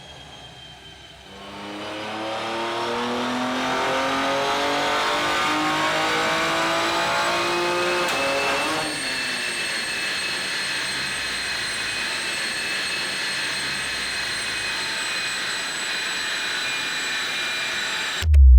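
BMW M2's twin-turbo straight-six doing a full-throttle pull on a chassis dyno, its note rising steadily for about seven seconds. About nine seconds in the throttle closes and the car coasts down with a steady high whine.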